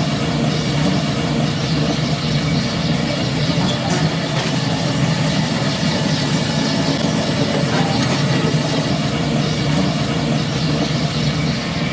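Machinery of a pig farm's automatic feeding system running with a steady, unbroken mechanical drone.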